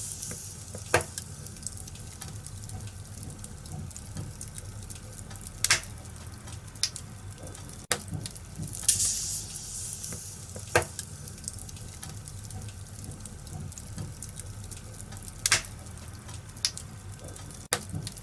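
Wood fire burning in a fireplace: a steady low rumble of flames with sharp crackling pops every few seconds, and a brief hiss about nine seconds in.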